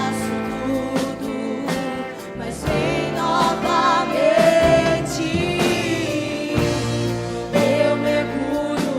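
Worship song performed by a band with a singing voice and a steady drum beat.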